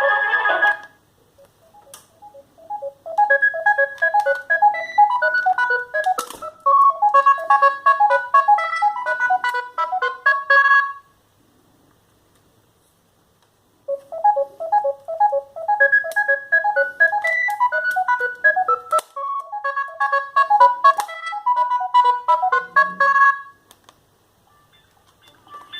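Sagem myX5-2 mobile phone playing one of its built-in ringtones: a fast melody of short electronic notes, played through twice with a gap of about three seconds between. The end of a different ringtone stops in the first second, and another begins at the very end.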